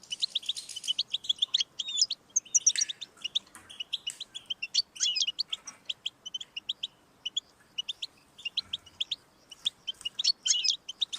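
European goldfinch singing: a fast twittering run of short, high chirps and brief trills, broken by short pauses.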